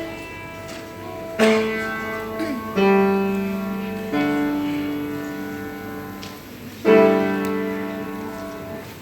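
Piano chords struck one at a time, each ringing out and slowly fading: four chords, about a second and a half apart and then after a longer gap.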